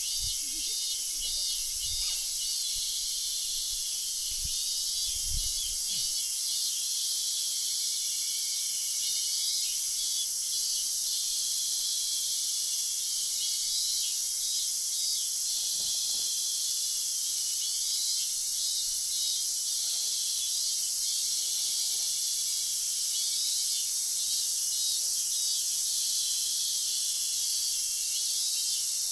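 A steady chorus of insects, crickets or similar, chirring continuously at a high pitch, with a few soft low thumps in the first several seconds.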